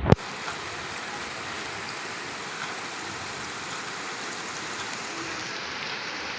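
A short loud knock, then a steady, even rush of water that starts abruptly and holds level.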